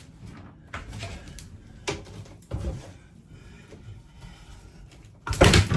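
A toilet being wrenched out of an RV floor: scattered knocks and clunks, then a loud crash near the end.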